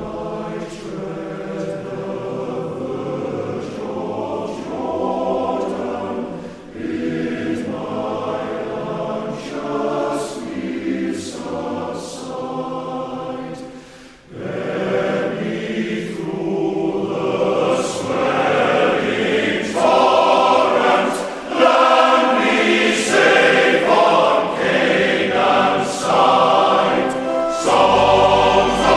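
Background music: a choir singing in long held phrases. There is a brief break about halfway, and it grows louder after that.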